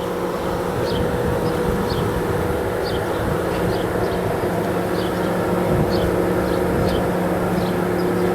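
Steady machinery hum holding a few pitched tones, with short faint high chirps about once a second.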